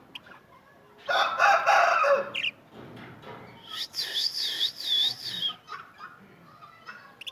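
A rooster crows once, loudly, about a second in. A few seconds later comes a shrill bird call that wavers up and down about four times.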